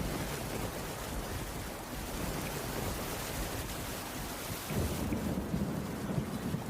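Steady heavy rain on a wooden cabin roof. A low rumble of thunder swells in about two-thirds of the way through and fades near the end.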